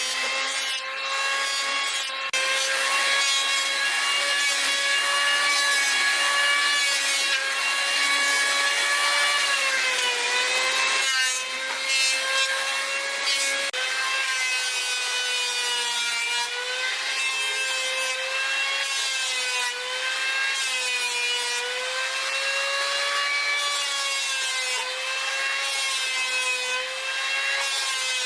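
Power saw cutting through wood: a steady motor whine whose pitch sags and recovers as the blade is loaded, with a few brief dips in the cut.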